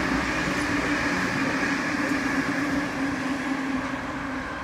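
Double-deck electric suburban train running past on the far track: a steady rumble of wheels on rail with a constant hum, easing off a little near the end as it moves away.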